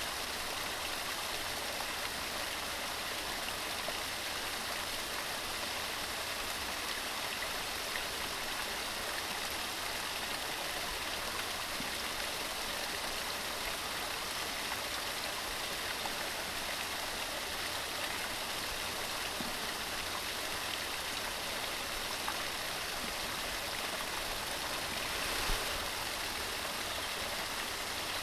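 Mountain stream running with a steady rush of water, swelling briefly louder near the end.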